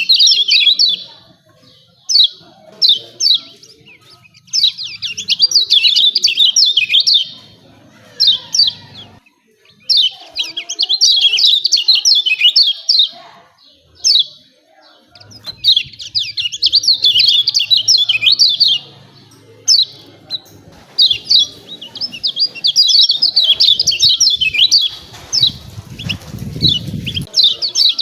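Kecial kuning, a white-eye, giving its rapid, sharp 'ciak ciak' chatter in repeated bursts of one to three seconds with short pauses between them. A low rumble sits under the calls near the end.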